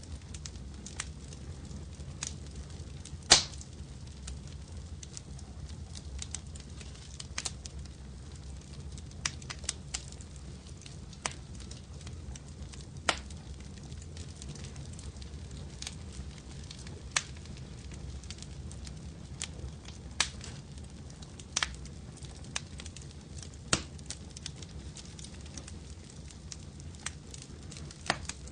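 Wood fire crackling in a fireplace: irregular sharp pops a second or a few seconds apart over a low, steady rumble, with one louder pop about three seconds in.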